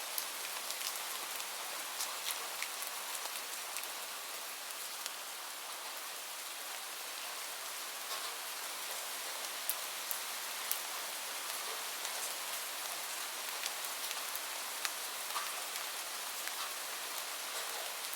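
Steady rain falling on a surface, an even hiss with scattered sharp ticks throughout.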